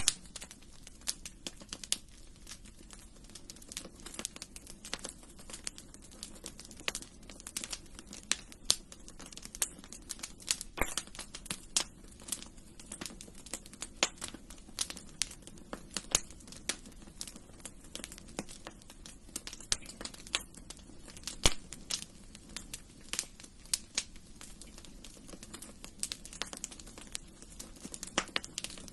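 Wood fire burning in a fireplace, crackling and popping irregularly, with many sharp snaps over a soft steady low hiss.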